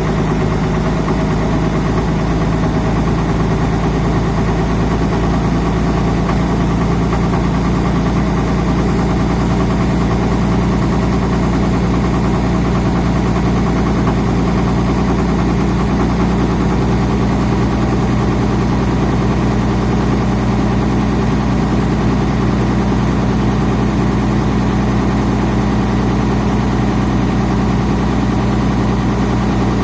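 1999 Dodge Ram 2500's 5.9L Cummins inline-six turbodiesel idling steadily while still warming up after a cold start in freezing weather. Its note changes slightly about seventeen seconds in.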